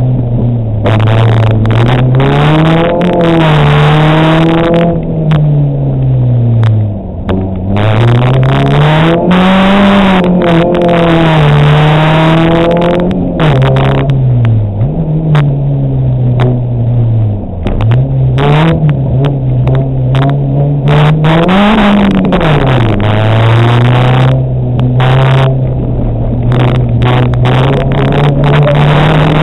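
Rally car engine heard from inside the cabin, driven hard on a stage: loud and revving, its pitch climbing and falling back again and again, with a few deep drops where it comes right off the throttle.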